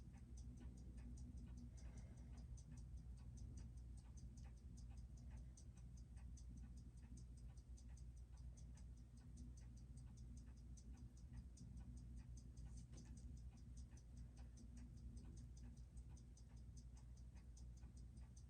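Seiko 6R15 automatic watch movement (21,600 beats per hour) ticking faintly in a rapid, even rhythm while it runs on a timing machine, over a low steady hum. The movement has just been serviced; the watchmaker suspects its balance hairspring is out of flat and not running true.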